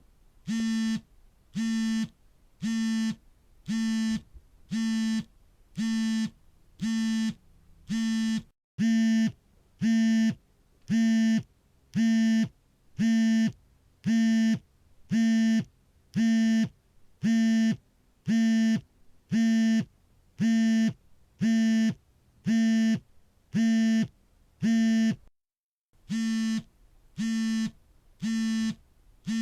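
Phone vibration alert buzzing in short, evenly spaced pulses, about three every two seconds, each a steady low buzz. The pattern breaks off briefly twice, about a third of the way in and near the end, and the pulses between those breaks are louder.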